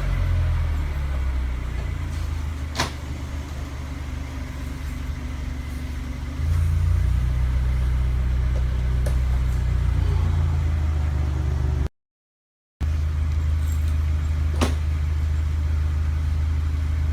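Subaru Levorg 2.0GT-S's turbocharged flat-four idling through an aftermarket K2Gear Spec Neo Phantom muffler, a steady low exhaust note that gets louder about six seconds in. The sound drops out for a moment past the middle, then the idle carries on.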